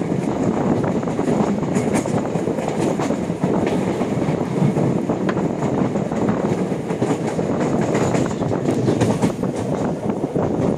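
A passenger train running at speed, heard from on board: a steady rumble of wheels on rails with occasional faint clicks.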